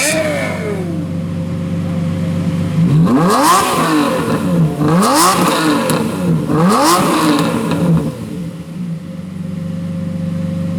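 Supercar engine idling, then blipped three times in quick succession, each rev shooting up sharply and dropping straight back to idle.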